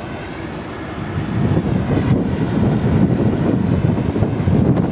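Locomotive-hauled passenger train passing on an electrified line, its running rumble growing louder about a second in as the carriages go by.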